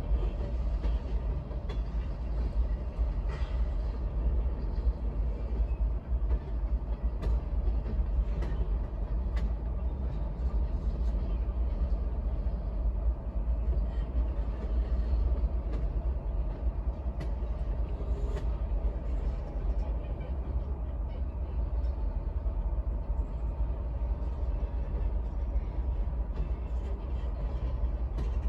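Freight train rolling past: a steady low rumble with scattered short clicks and clanks from the cars.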